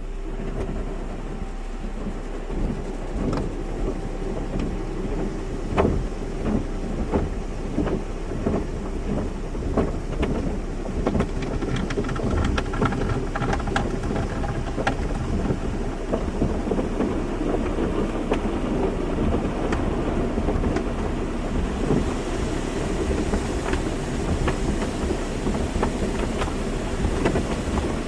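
Car wash running: water spray drumming and spattering on a car, a dense rumbling wash of noise with many small knocks, growing hissier a little past the middle.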